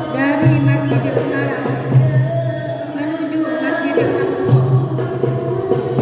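Voices singing sholawat, an Islamic devotional song in praise of the Prophet, with percussion accompaniment.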